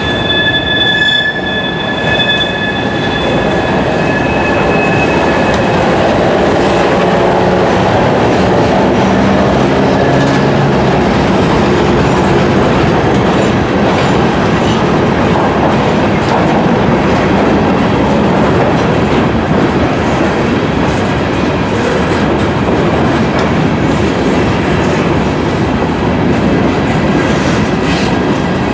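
Freight train's high-sided cars rolling past, a steady rumble and rattle of steel wheels on the rails. A high-pitched wheel squeal at the start fades out within the first few seconds.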